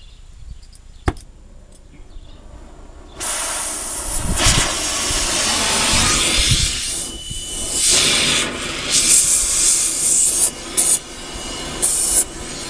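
A power tool cutting through a car's metal exhaust pipe. It starts about three seconds in with a loud, harsh hissing cut that surges and dips unevenly. A single sharp click comes about a second in.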